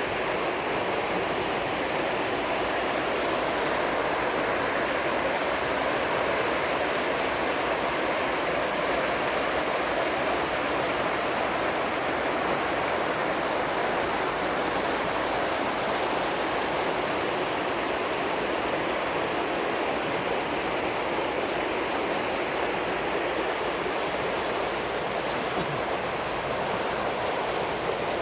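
River rapids rushing steadily, an unbroken wash of water noise.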